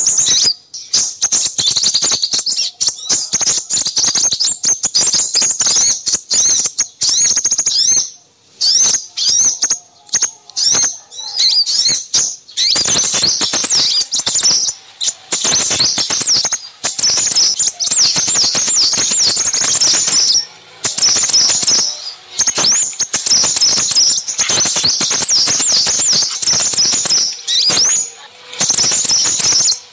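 Bird-lure recording of a noisy flock of small birds: dense, rapid high-pitched chirps and twittering trills, broken by a few short pauses.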